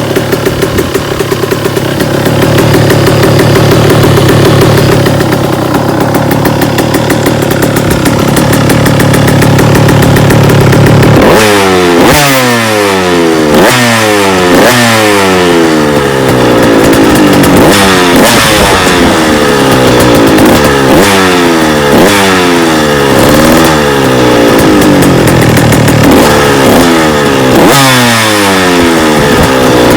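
KTM 85 two-stroke dirt bike engine, exhausting through an FMF Shorty silencer, running steadily. About a third of the way in it starts being revved in repeated quick throttle blips, each rising sharply and falling back, one every second or two.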